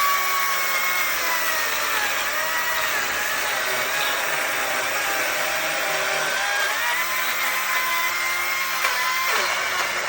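Power saw cutting firewood, its motor note sagging and recovering as it works through the wood, then falling sharply about nine seconds in.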